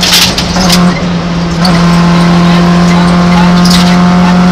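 Peugeot 106 rally car's four-cylinder engine heard from inside the cabin, held at high, steady revs under power. A brief harsh burst of noise comes right at the start, before the engine note settles.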